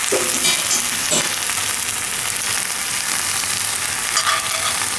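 Barbecue sauce and a slice of bologna sizzling and spattering in a hot cast-iron skillet, a steady frying hiss.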